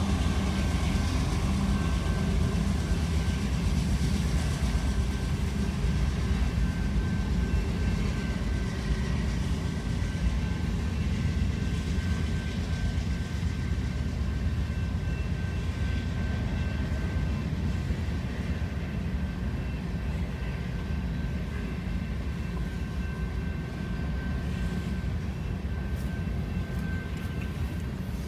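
Train running along the track: a steady low rumble with a faint, steady high-pitched whine above it, easing off slightly near the end.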